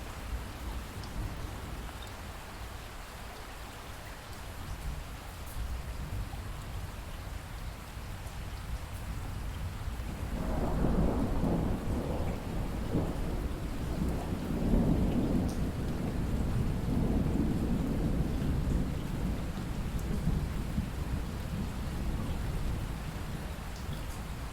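Steady rain with a long roll of thunder that swells about ten seconds in and slowly dies away over the following ten seconds.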